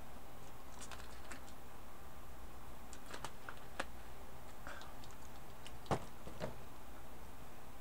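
Computer keyboard keys clicking in scattered, irregular taps, with one louder click about six seconds in, over a steady low hum.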